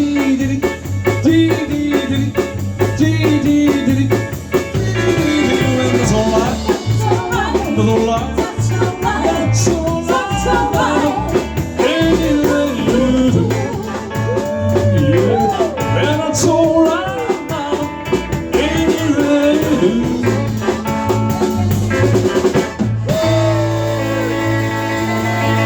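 Live rock band playing an instrumental passage: drum kit and bass keep a steady beat under a lead line that bends up and down in pitch. Near the end the music drops out for an instant and a steadier guitar pattern begins.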